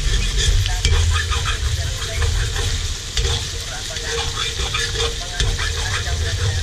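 Chicken pieces sizzling in a metal wok while a metal spatula stirs and scrapes them, with frequent short clinks of the spatula against the pan over a steady low rumble.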